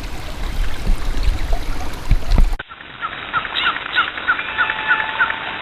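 A small trickle of water with a few low thumps; then, after an abrupt cut, a bird chirping a quick run of short notes, about four a second.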